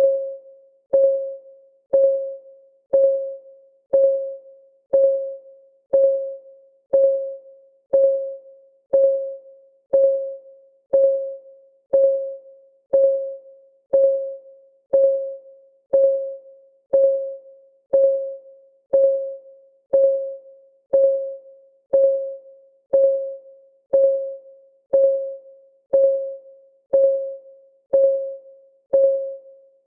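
Countdown timer's clock-ticking sound: a short, pitched tick once a second, each dying away quickly, steady and even.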